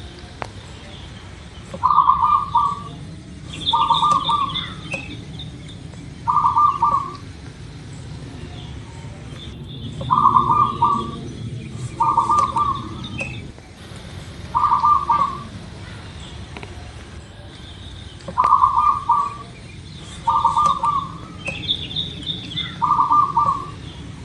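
Zebra dove (perkutut) cooing: nine short, rolling, pulsed coos, repeated every two to four seconds, with a few fainter, higher-pitched chirps among them.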